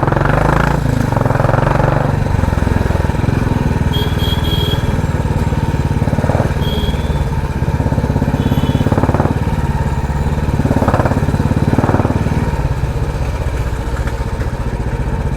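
Royal Enfield Classic 350's single-cylinder engine running at low road speed through a loud aftermarket 'helicopter' exhaust, a steady fast beat.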